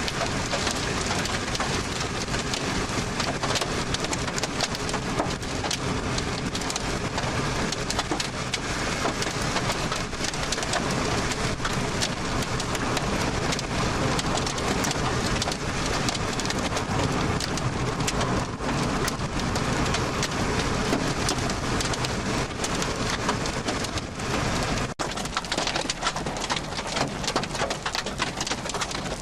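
Heavy rain falling hard, a dense steady hiss of drops hitting. There is a brief break about 25 seconds in, after which the deep rumble underneath drops away.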